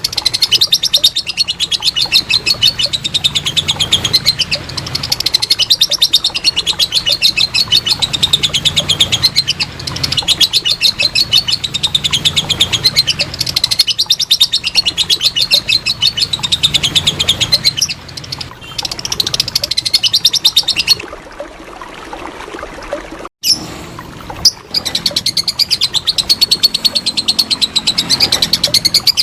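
Lovebird 'ngekek': a long, rapid chattering trill of sharp repeated notes, running unbroken for about twenty seconds, then a few seconds of quieter sound with a brief cutout, then the rapid chatter again.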